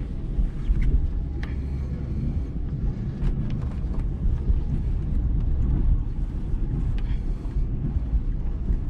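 A Ford tow vehicle's engine runs with a steady low rumble as it pulls a car out on a tow strap. A few short sharp clicks come through on top of it.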